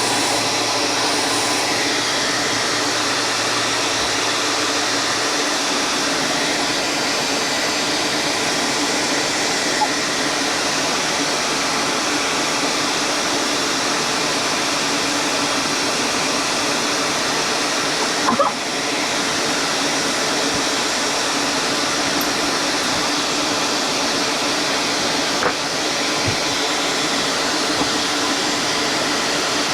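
A workshop machine running steadily, an even whirring with a few faint steady tones in it, broken by a brief knock about eighteen seconds in and another near twenty-five seconds.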